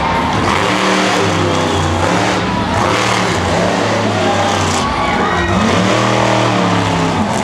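Monster truck engine revving hard, its pitch rising and falling as the throttle is worked, then swelling up and back down near the end.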